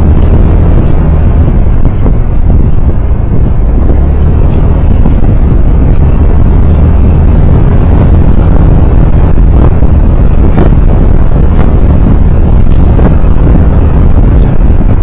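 On-board road noise of a vehicle driving: a steady loud low rumble of engine, tyres and wind, with a few faint knocks.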